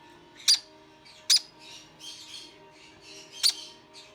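Parrots squawking: three short, sharp squawks, with softer raspy calls in between.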